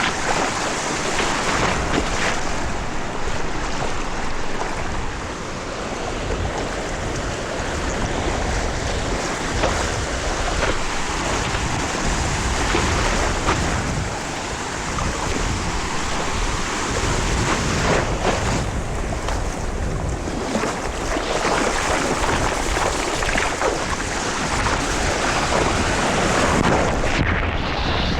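Ocean surf washing and sloshing close to the microphone, a steady dense roar with a rumbling low end, with wind buffeting the microphone.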